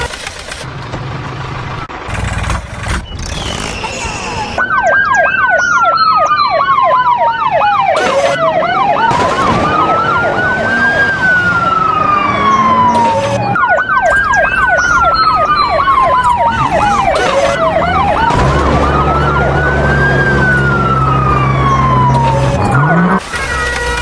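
An electronic siren sounds from about four seconds in until near the end. Fast yelps ride on a slow wail that falls and then rises, and the cycle repeats about every nine seconds. A low vehicle engine hum runs underneath at times.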